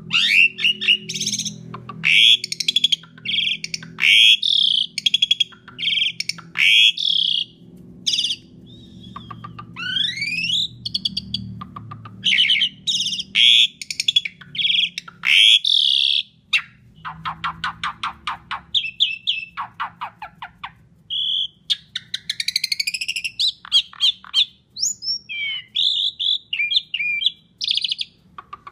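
Asian pied starling (jalak suren) singing a loud, varied song of rising whistles and squeaky, chattering phrases, with a run of fast rattling notes in the middle.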